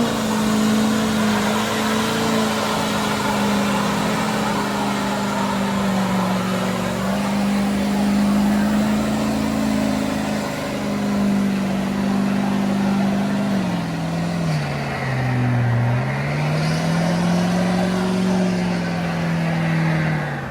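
A truck engine held at high revs through a long burnout, over a steady hiss. The pitch dips about three quarters of the way through, climbs back, then drops off at the end as the throttle is let go.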